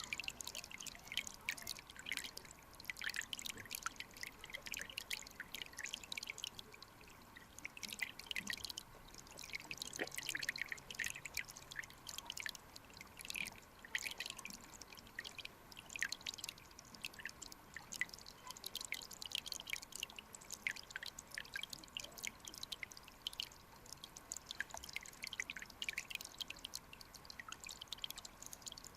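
Clear mountain stream trickling and splashing over rocks: a constant patter of small drips and bubbles.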